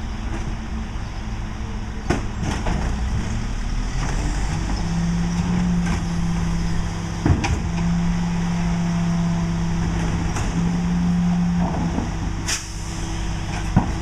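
Mack LE garbage truck running, with its diesel engine rumbling steadily. A steady hum comes and goes for several seconds from about five seconds in. A few sharp clanks are heard along the way.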